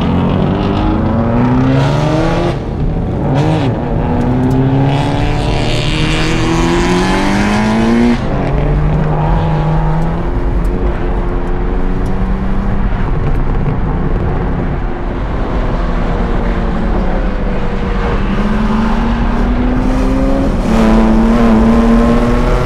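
2023 BMW M2's twin-turbo straight-six heard from inside the cabin, accelerating hard through the gears. Its pitch climbs in long sweeps and drops back at each upshift.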